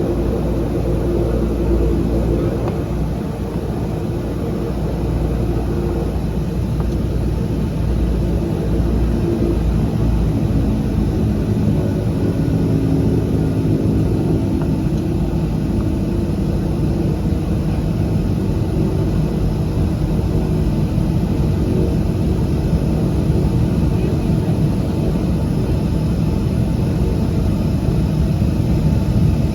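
A De Havilland Canada DHC-6-300 Twin Otter's twin Pratt & Whitney PT6A turboprop engines and propellers, heard from inside the cabin as a loud, steady drone with several steady tones. The deepest rumble lessens about ten seconds in.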